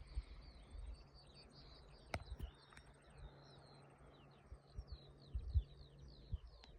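Small songbirds singing faintly: a continuous run of short high chirps, several a second, most sliding down in pitch, over faint low rumbling.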